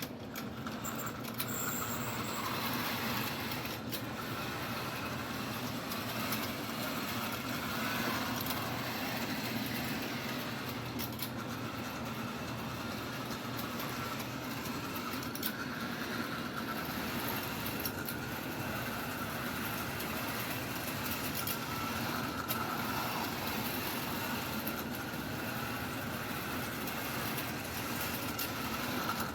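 Tyco HO-scale model train running on a circle of sectional track: the F7 diesel locomotive's small electric motor whirring with a wavering whine, over a steady rolling rattle of wheels on the rails with occasional clicks.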